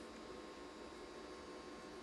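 Low steady hiss with faint steady hum tones: quiet room tone, with no distinct event.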